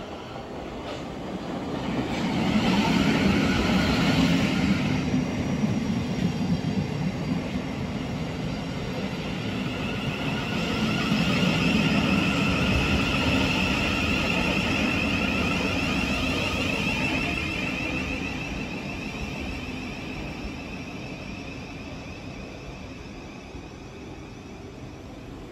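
Southeastern electric multiple unit passing along the platform with a rumble of wheels on rails. It grows louder twice and then fades, with a high electric whine that falls slowly in pitch.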